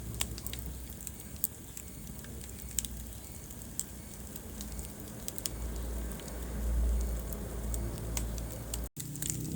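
Wood fire burning in a fireplace: scattered sharp crackles and pops over a low, steady rumble of flame. The sound cuts out for an instant near the end.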